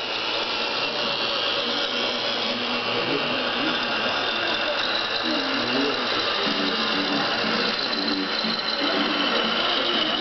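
Electric drive motors and gearboxes of a radio-controlled scale model Scania truck whirring steadily as it drives with its loaded trailer, with a high whine that shifts slightly in pitch.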